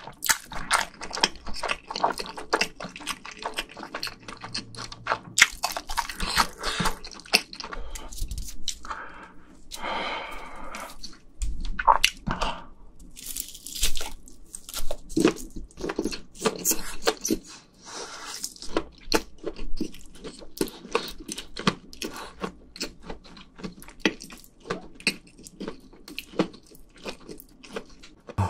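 Close-miked eating of spicy stir-fried ramen noodles and sausage: wet chewing with a dense run of mouth clicks and smacks.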